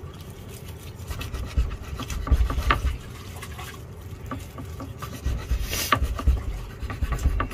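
Irregular rubbing and scraping with scattered knocks, over a gusting low rumble of wind on the microphone.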